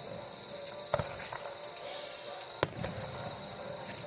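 Fireworks bursting: two sharp bangs, about a second in and again about a second and a half later.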